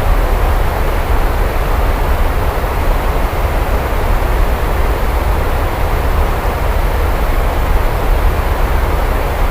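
Steady heavy rain, a continuous even hiss with a deep low rumble underneath.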